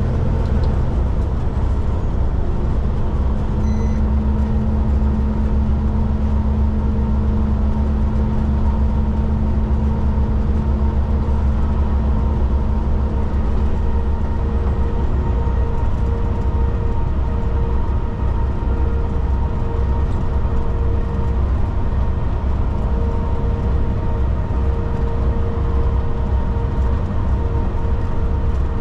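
Kenworth K200 cabover truck's Cummins diesel engine and road noise heard from inside the cab while cruising: a steady, unchanging drone with a constant hum.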